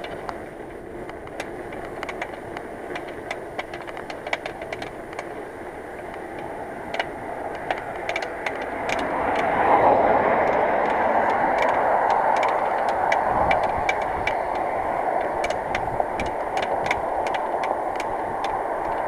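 Bicycle ridden downhill: a steady rush of wind and tyre noise that swells about halfway through, with scattered sharp ticks and rattles.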